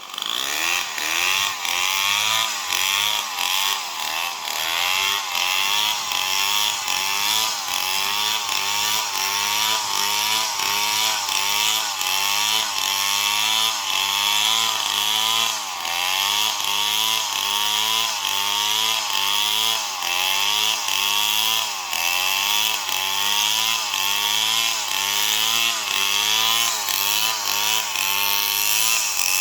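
Stihl MS 070 two-stroke chainsaw at full throttle, cutting through old palm wood. Its engine note jumps up suddenly at the start, then sags and recovers over and over as the chain bites under load.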